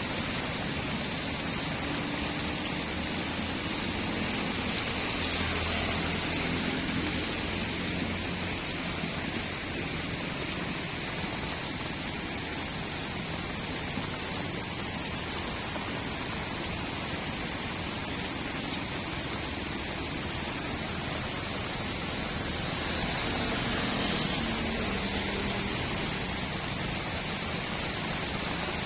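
Steady rain falling on a street, an even hiss that swells a little twice, about six seconds in and again near the end.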